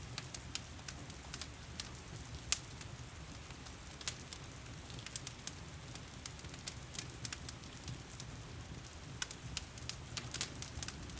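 Wood fire crackling with irregular sharp pops, one loudest pop about two and a half seconds in and a flurry of them near the end, over a steady hiss of heavy rain.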